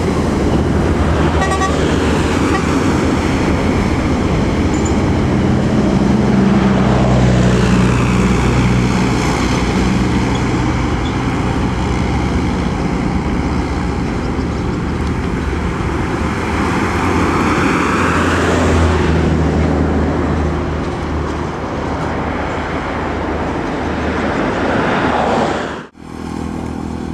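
Large buses passing at speed on a highway, with engine and tyre noise swelling twice as vehicles go close by, loudest about seven and eighteen seconds in, and horn toots.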